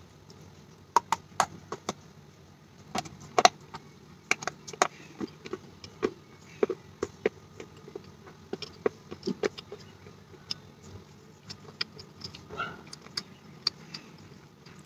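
Close-miked chewing of a piece of wet terracotta clay pot: irregular sharp crunches and wet mouth clicks, thickest in the first few seconds and thinning out toward the end.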